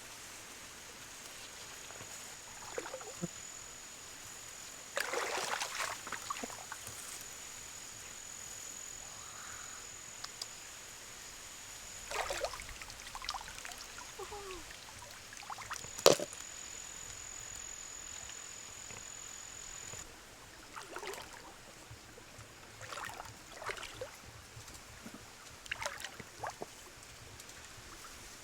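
Water splashing and sloshing in irregular short bursts, with a thin steady high whine that stops about two-thirds of the way in. One sharp click about halfway through is the loudest sound.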